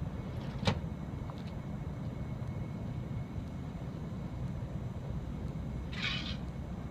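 Steady low rumble of outdoor ambient noise, with one sharp click just under a second in and a brief hiss near the end; no ship's horn sounds.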